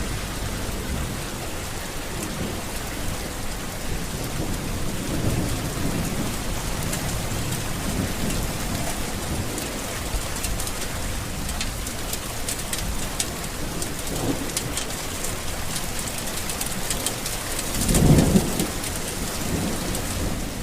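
Steady heavy rain with many small pattering drops and low rolling thunder underneath. A louder clap of thunder comes near the end.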